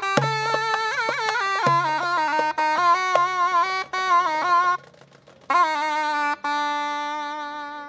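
Zurna playing an ornamented melody with quick turns and bends, over a low held tone in the first half. It breaks off briefly past the middle, then ends on a long sustained note.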